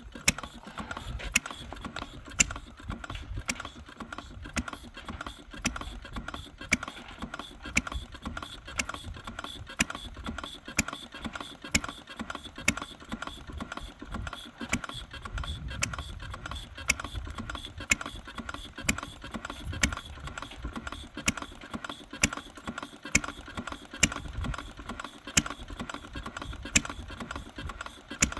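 Henry Ford's 1893 single-cylinder engine running slowly, with a sharp pop about once a second over a fast, steady clatter of its moving parts.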